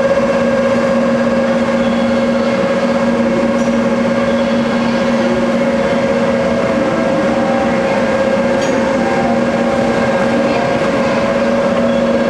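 Electric train running at a steady speed: an even rumble of running noise with a constant hum held at two pitches.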